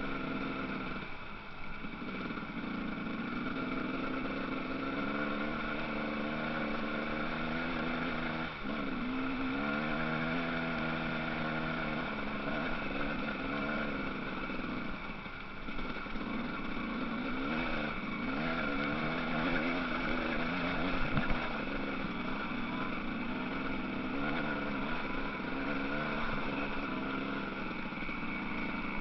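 Motocross bike engines running continuously, their pitch rising and falling again and again as the throttle is opened and closed.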